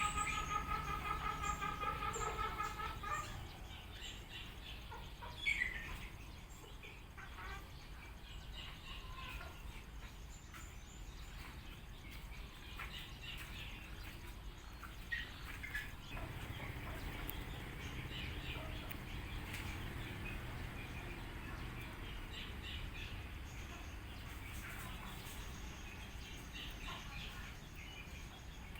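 Birds calling and chirping: a held, pitched call for the first three seconds, then scattered short chirps and calls over a steady background hiss.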